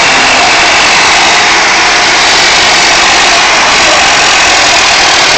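Tractor engine running steadily, recorded so loud that it comes out as a harsh, even noise.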